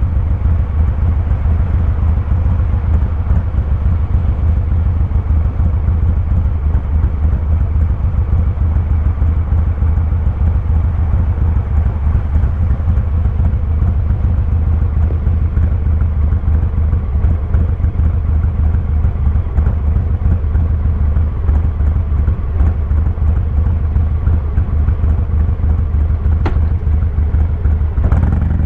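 Harley-Davidson Fat Boy 114's Milwaukee-Eight 114 V-twin engine and exhaust running steadily. The sound sits low and even throughout, with no revving rise or fall.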